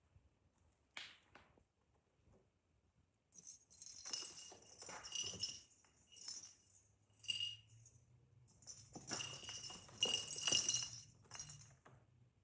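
A small bell jingling in irregular shakes, in two stretches, the second louder.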